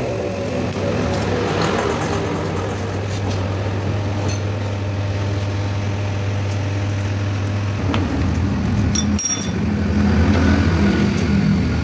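A steady low machine hum with scattered sharp metal clinks, a quick cluster of them about nine seconds in.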